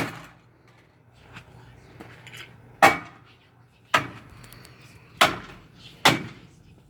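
Baseball bat blows striking the plastic body of a Whirlpool Duet washing machine: five sharp cracks at irregular spacing, the first right at the start and four more in quick succession from about three seconds in, with faint rattling of loose parts between them.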